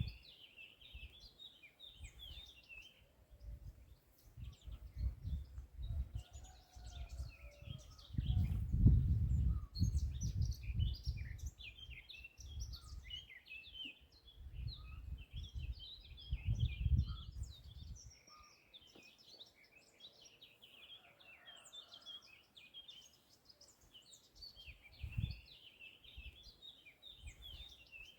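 Several songbirds chirping and twittering in quick, high phrases. Underneath, a low rumble swells and fades in gusts; it is the loudest sound about a third of the way in and again past halfway.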